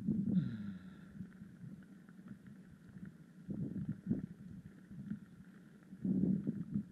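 Mountain bike riding on a road: rough, uneven rumble of the tyres and bike over the surface, in irregular spells, louder at the start and again from about six seconds in.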